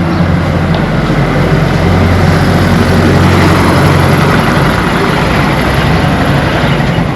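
A heavy engine running close by, with a steady low hum that swells toward the middle and eases off near the end.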